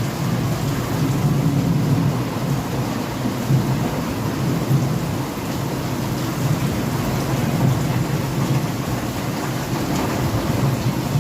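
Heavy rain in a windstorm, a steady dense hiss with a continuous low rumble underneath.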